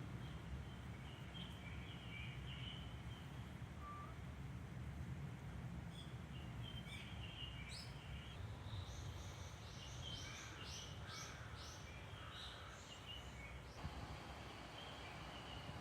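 Small birds chirping and twittering over a steady low background rumble, with the calls coming thickest in the middle and later part.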